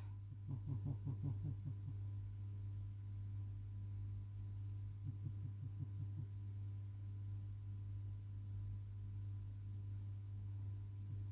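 A steady low hum, with faint soft pulses twice: near the start and about halfway through.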